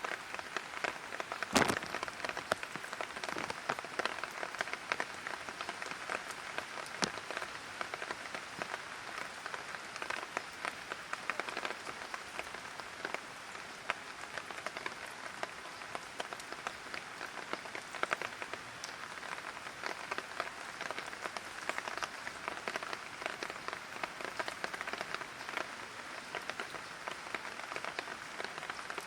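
Light rain falling, a steady patter of many small drops tapping on surfaces, with one sharper, louder tap about a second and a half in.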